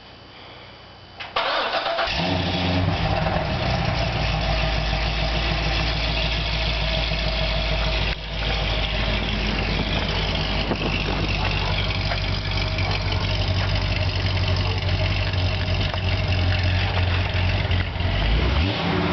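Corvette C6 Z06's 7.0-litre LS7 V8, breathing through catless long-tube headers and the stock exhaust, starting suddenly about a second in and then idling steadily, with one brief dip about eight seconds in. It is the first start the morning after the headers went on.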